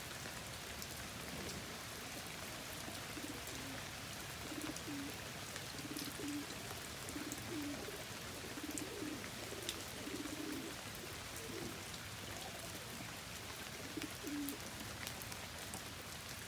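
Domestic pigeons cooing again and again, short low calls, over the steady hiss of heavy rain, with a few sharp ticks.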